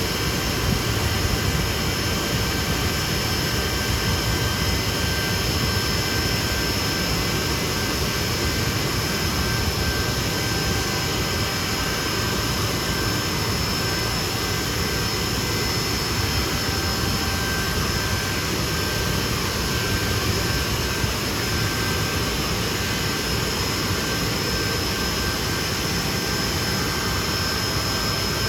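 Jet engines of a Hawker Siddeley Nimrod, Rolls-Royce Spey turbofans, running steadily: an even loud rush with a steady high whine over it, with no change in power.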